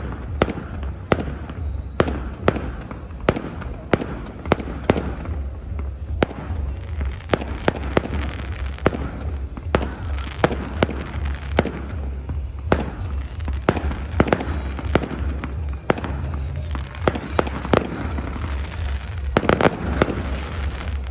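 Fireworks display going off: a continual run of sharp bangs and crackles, roughly one or two a second, over a steady low rumble.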